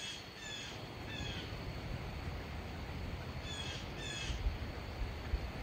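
A bird calling in short, slightly falling calls: three close together, then two more a few seconds later, over a low steady rumble.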